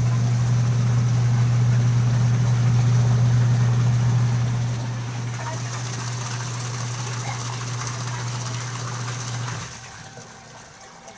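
Panasonic Aquamax washing machine motor running with a steady low hum, cutting off near the end. The repaired machine is running normally.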